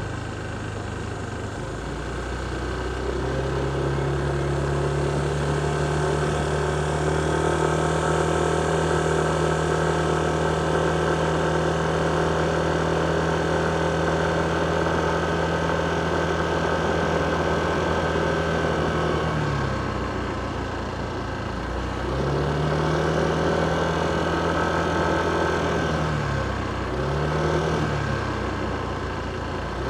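Motorcycle engine heard from the rider's seat. The revs rise about three seconds in and hold steady for a long stretch, then dip and climb again three times near the end as the throttle is eased off and reopened, over a haze of road and traffic noise.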